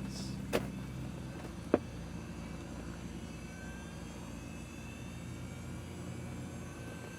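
Cessna 182 cockpit electrics just switched on at the master switch: a steady electrical hum with two sharp switch clicks in the first two seconds. From about halfway in, a faint high whine rises slowly in pitch as equipment spins up.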